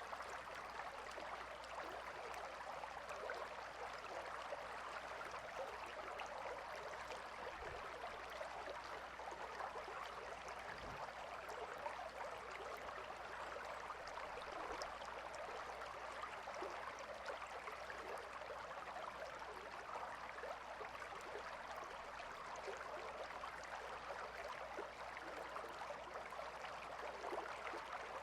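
Calm river flowing: a steady, even rush of water with fine trickling and small splashes throughout.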